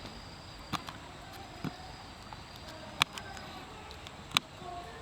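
Four sharp, short clicks or snaps at irregular intervals, roughly a second apart, over a quiet outdoor background.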